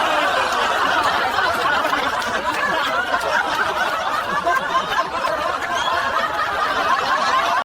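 A crowd of many people laughing together, steady and loud, then cutting off abruptly at the end.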